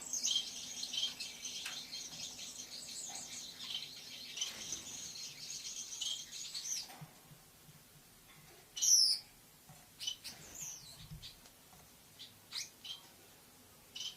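Lovebird chattering in a fast, continuous stream of high chirps for about seven seconds, then a pause broken by single sharp chirps, the loudest about nine seconds in.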